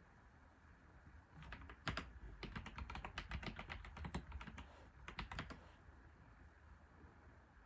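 Computer keyboard typing: a quick run of key clicks for about three seconds, a short burst of a few more keystrokes, then a pause.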